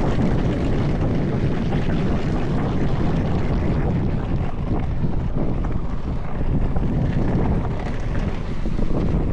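Mountain bike descending a rough trail: tyres rolling over dirt and rocks with a continuous rattle of small knocks from the bike, and wind buffeting the microphone.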